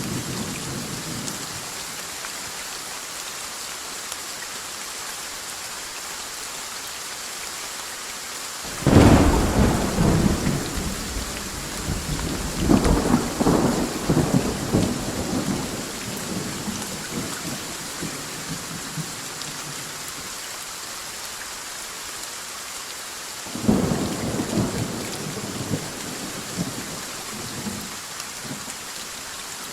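Steady heavy rain with two thunderclaps: a loud crack about nine seconds in that rolls on for several seconds, and a smaller rumble near the two-thirds mark.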